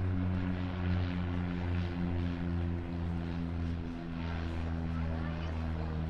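Cessna Grand Caravan floatplane's single Pratt & Whitney PT6A turboprop engine and propeller running with a steady drone, its pitch easing slightly lower about halfway through.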